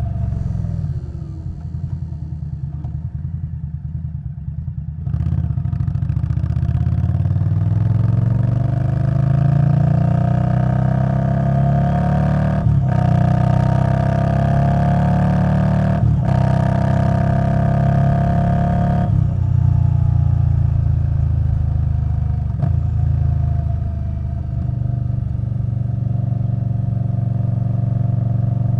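Indian Scout Bobber Twenty's V-twin engine through a V&H Twin Slash exhaust: off the throttle with a pulsing exhaust note for the first few seconds, then opened up about five seconds in, rising in pitch through two quick upshifts before easing back to a steady cruise.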